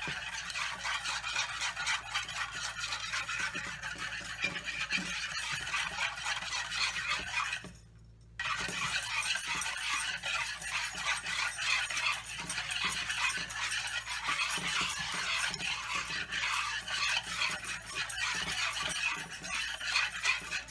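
Butter, sugar and cream caramel sauce sizzling and bubbling in a fry pan over the heat: a steady crackling hiss that cuts out briefly about eight seconds in.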